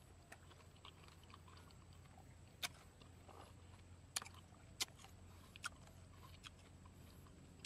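Closed-mouth chewing of a crisp sour green fruit: faint, with about half a dozen short, sharp crunches scattered through it.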